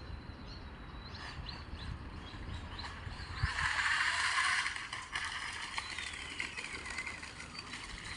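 Electric radio-controlled boat running on water: a hissing rush of spray and motor swells up about three and a half seconds in and fades about a second and a half later, followed by a faint motor whine falling in pitch as it moves away.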